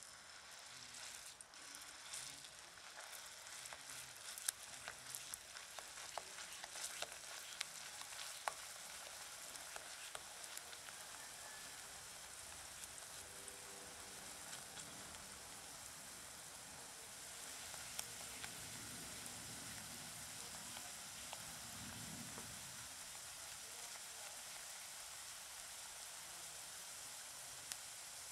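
Batter sizzling in shallow hot oil in a nonstick frying pan as spoonfuls go in and fry into fritters: a steady hiss with scattered sharp crackles of spattering oil, most of them in the first several seconds.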